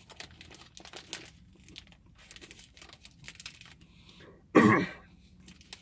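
Chewing a dense crisp-rice and marshmallow treat bar, with small crackles and the plastic wrapper crinkling, then one short, loud cough about four and a half seconds in.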